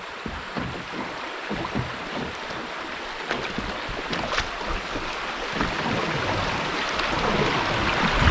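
River water rushing and splashing around a canoe, growing steadily louder, with a few small splashes and some low wind rumble on the microphone.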